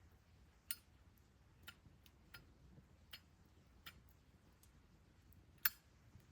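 Burning firewood crackling: six sharp, irregular pops over a faint low hum, the loudest near the end.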